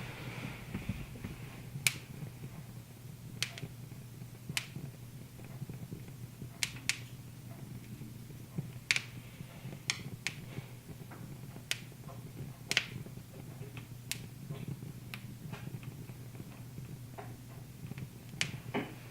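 Wood fire crackling in a fireplace: irregular sharp pops and snaps, roughly one a second, over a steady low hum.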